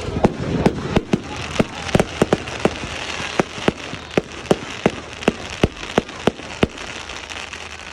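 Fireworks going off in a rapid, evenly spaced run of sharp bangs, about three a second, over a crackling hiss. The bangs grow fainter and stop shortly before the end.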